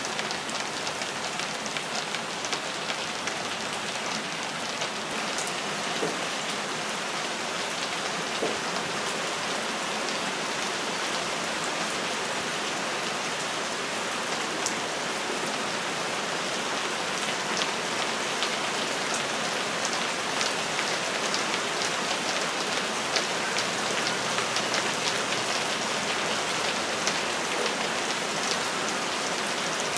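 Steady heavy rain: a dense, even hiss dotted with the sharp ticks of single drops landing close by. It grows a little louder in the second half.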